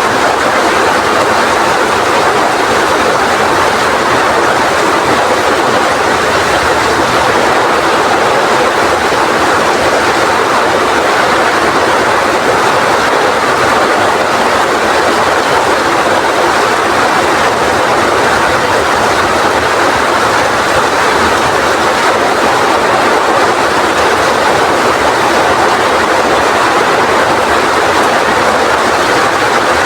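Heavy rain pouring in strong wind: a loud, steady rushing hiss that does not let up.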